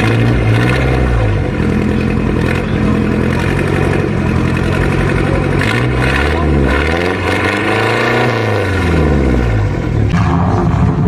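Car engine revving: the pitch rises and falls back a few times, with one long rev climbing and dropping about two-thirds of the way in.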